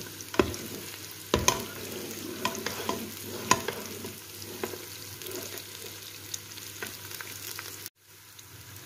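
Onions and whole spices sizzling in ghee in a Noxxa electric pressure cooker's inner pot on its stir-fry setting, while a spoon stirs them, clinking sharply against the pot several times in the first half. The sound cuts out for a moment near the end.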